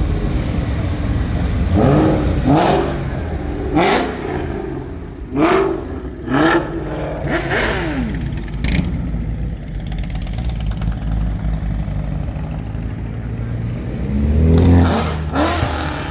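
A car engine revved in a series of quick throttle blips, each rising and falling in pitch, about six in the first half and two more near the end, over a steady low idle.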